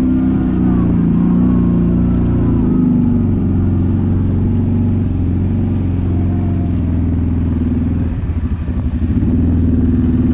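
ATV (quad) engine running under way, steady and loud, easing off briefly about eight seconds in and then picking back up.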